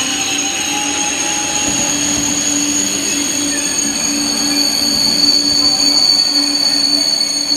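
A train rolling by with steady, high-pitched squealing from its wheels on the rails. One squeal tone grows louder from about four seconds in.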